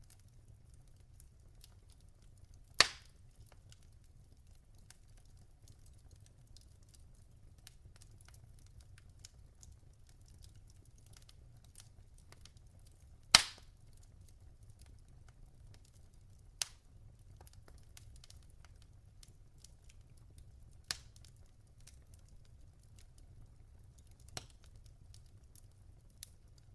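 Logs burning in a fireplace, crackling: a steady low rumble of the fire with faint ticking and scattered sharp pops, the two loudest about 3 and 13 seconds in.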